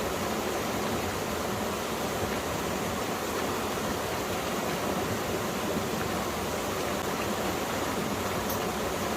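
A valley stream running steadily, a constant even rush of flowing water.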